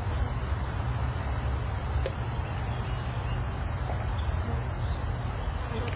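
Crickets chirping steadily in a continuous high-pitched trill, over a low steady rumble.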